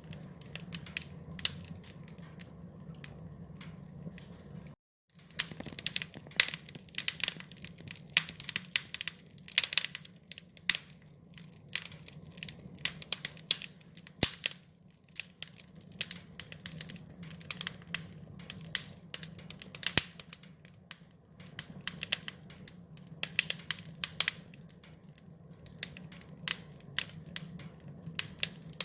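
Fire crackling, with frequent sharp irregular pops over a low steady rumble. A momentary gap in the sound comes about five seconds in.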